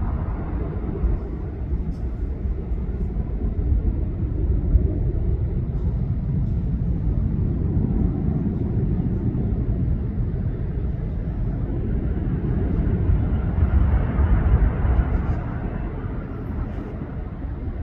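Jet airliner engines: a steady low rumble that swells around the middle and again, loudest, a few seconds before the end.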